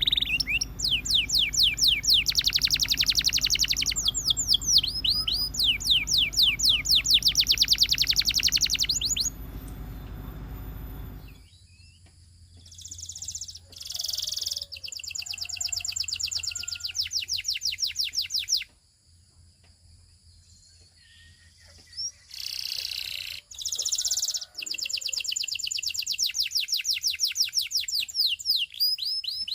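Domestic canary singing long rolled trills of fast, evenly repeated high notes, in phrases several seconds long separated by short pauses.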